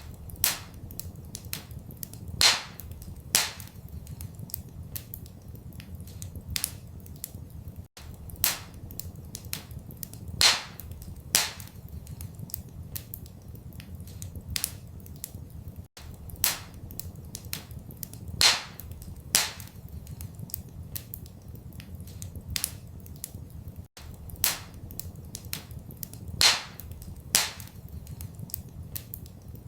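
Wood fire crackling in a fireplace: a run of small ticks and louder sharp pops over a steady low rumble. The same stretch of about eight seconds repeats as a loop, with a brief dropout at each join.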